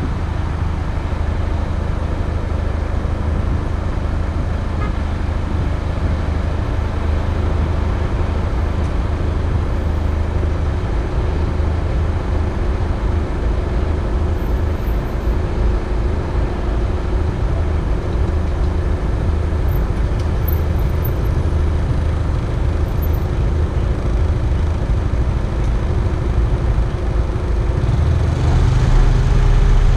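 Car engine idling steadily, heard from inside the cabin as a low hum. Near the end it grows louder as the car pulls away.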